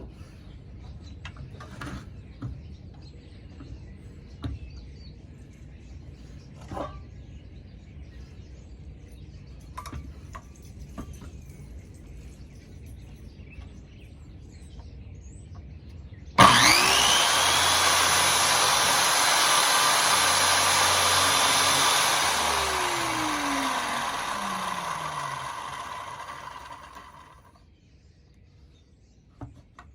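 A few quiet knocks from handling, then an electric power saw switches on about halfway through and runs steadily for about five seconds. After it is switched off, its motor winds down with a falling whine and stops shortly before the end.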